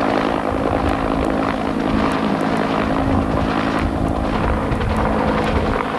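Military helicopter running, a steady noise of turbine and rotor with a constant low hum.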